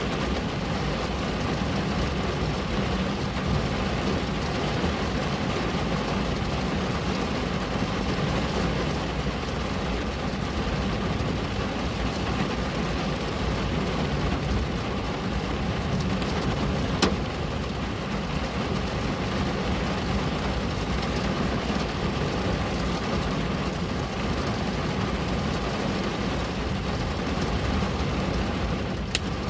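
Rain falling steadily on a window, a constant even patter, with a single sharp tick about seventeen seconds in and another near the end.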